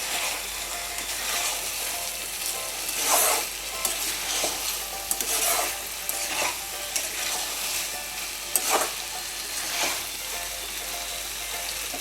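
Chicken sizzling in a pan of thick honey-soy sauce while it is stirred, with irregular scrapes against the pan every second or so.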